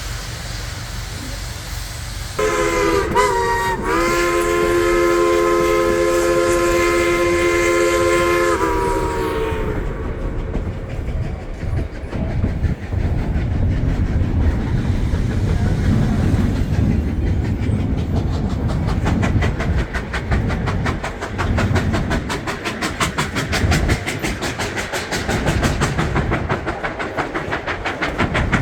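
Steam locomotive whistle blowing a chord for about seven seconds, with a brief break in it early on and a sag in pitch as it closes. Then the train runs with a steady rumble, and a quick regular beat sets in past the middle.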